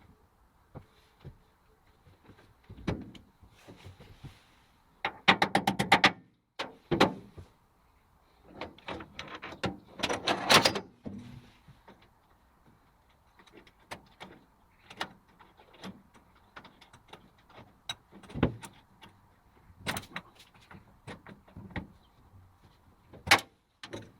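Intermittent clicks and knocks, with a quick rattle of rapid clicks about five seconds in and a longer scraping rattle around ten seconds in; no motor is running.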